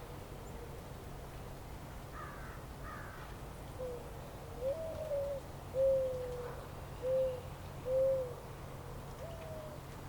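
A bird gives a series of short, low hooting calls, about six, some stepping up in pitch, over a steady low rumble. Faint higher chirps from another bird come about two seconds in.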